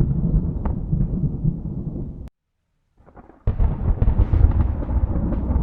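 Thunder rumbling, which cuts off abruptly a little after two seconds into about a second of silence. A new loud roll of thunder then starts suddenly about three and a half seconds in.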